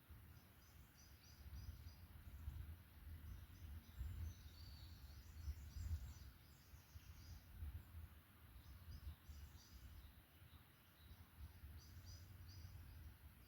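Faint forest birdsong: short runs of quick, high repeated notes, several times through the stretch, over a low, uneven rumble.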